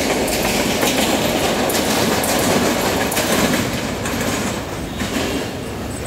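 Passenger coaches of an Indian Railways express train rolling past at speed, wheels clattering over the rail joints. The sound fades over the last couple of seconds as the rear of the train moves away.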